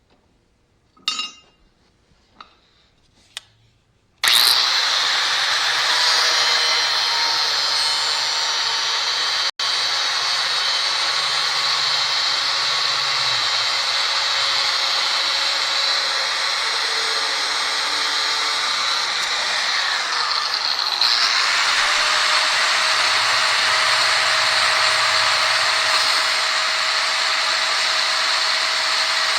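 A few knocks, then a handheld power tool starts about four seconds in and runs steadily under load, cutting through a metal part of the mower's lap-bar linkage. Its tone shifts about twenty-one seconds in.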